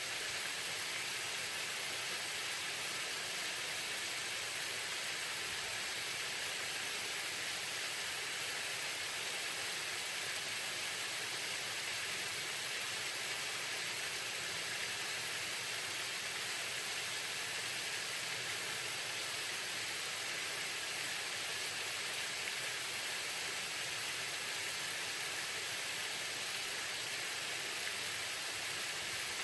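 Waterfall: a steady, unbroken rush of falling water, mostly a bright hiss.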